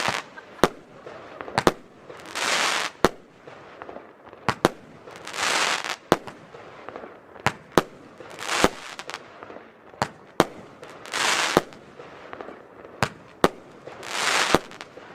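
FireEvent Vario Gigant firework battery firing its shots in sequence: sharp bangs about once a second, with a rushing hiss of about a second roughly every three seconds.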